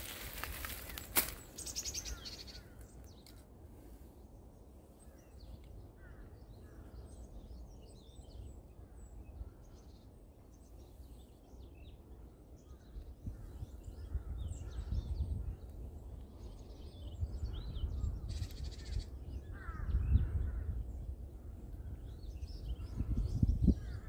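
Birds calling outdoors in scattered short calls, some of them crow-like caws. A low rumble builds in the second half.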